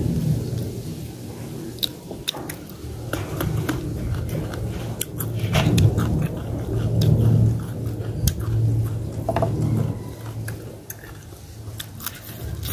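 Close-miked chewing and mouth sounds of a person eating fried fish, with many short, sharp clicks scattered throughout.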